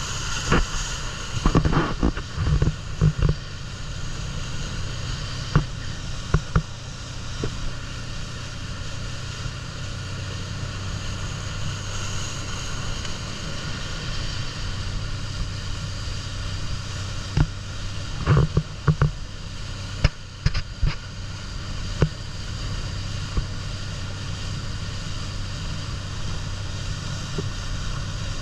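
A boat's engine running steadily with a constant hum over the rush of water and wind, broken now and then by short thumps and knocks.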